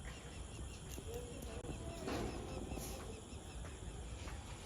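Faint outdoor background with a low hum and small, evenly repeated high chirps, plus a few short faint calls.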